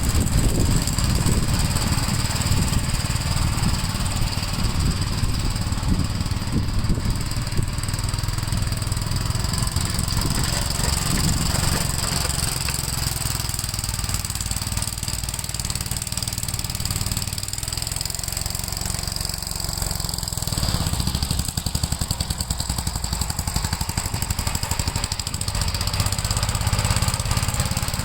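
Gravely L8 walk-behind tractor's engine running steadily while plowing snow, easing slightly in the middle and picking up again about three-quarters through.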